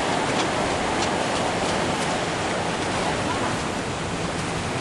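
Ocean surf washing onto the beach in a steady, even rush.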